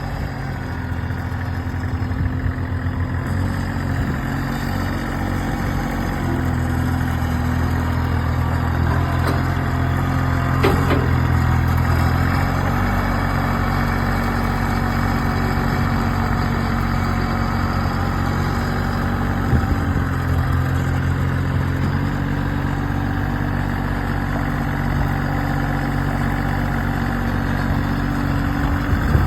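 Kioti CK35 compact tractor's three-cylinder diesel engine running at a steady idle, its speed stepping slightly up and down a few times, with a single sharp click about ten seconds in.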